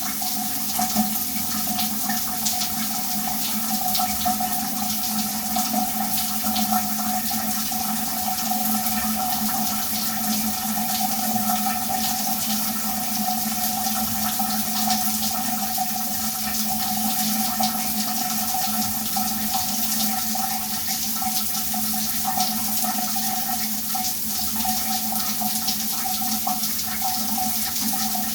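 Shower running steadily: water spraying and spattering, with constant fine droplet ticks over an even hiss and a steady resonant ring from the enclosure.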